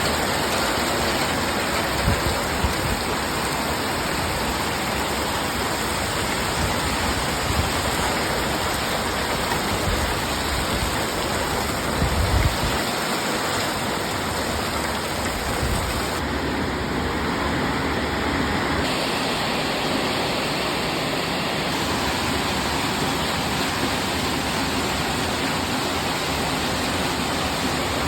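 Heavy rain pouring down in a steady hiss, with strong wind gusting against the microphone in low rumbling buffets, the strongest about halfway through.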